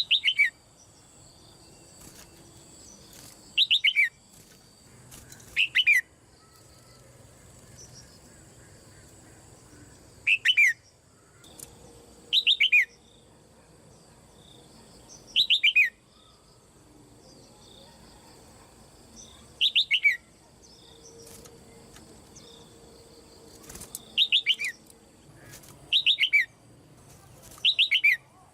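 Red-whiskered bulbul calling about ten times, each call a quick run of three or four loud notes falling in pitch, repeated every two to four seconds.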